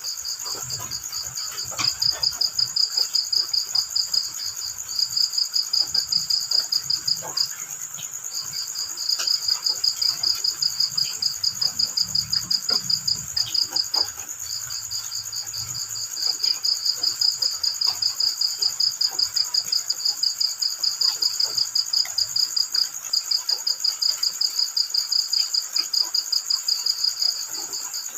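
Crickets chirping in a fast pulsed trill of about five pulses a second, in long runs broken by brief pauses, over a steady high-pitched insect drone.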